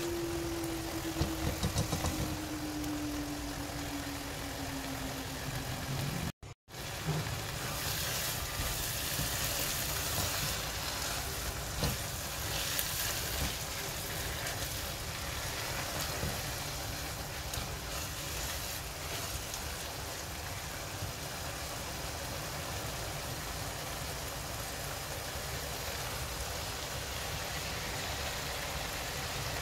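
Food frying in a nonstick wok, a steady sizzle with the scrape and stir of a silicone spatula through a wet, crumbled tomato mixture. Over the first six seconds a steady tone slides slowly down in pitch, and about six seconds in the sound breaks off for a moment of silence.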